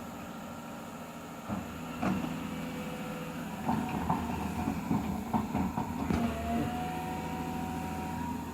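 Excavator running, with metal clanks and knocks from about a second and a half in and a steady high whine holding from about six seconds in.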